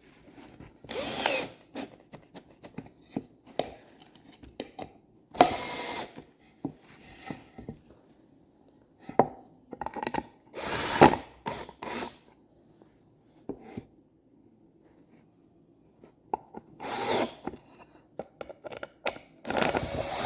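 Cordless drill-driver run in several short bursts, driving screws into softwood, with clicks and knocks of the parts being handled between the bursts.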